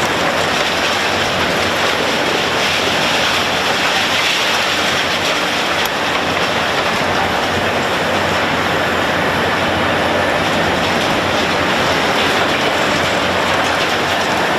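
Heavy construction machinery working, a steady loud noise with no distinct strikes.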